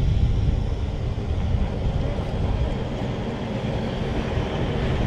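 Strong wind buffeting the microphone: a loud, uneven low rumble that rises and falls without a break.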